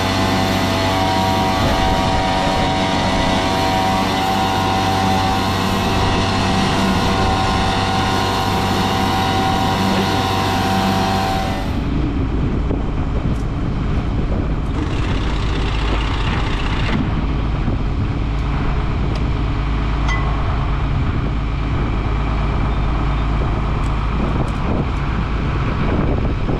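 A vehicle engine running steadily. About twelve seconds in, the sound changes abruptly to a deeper, duller rumble.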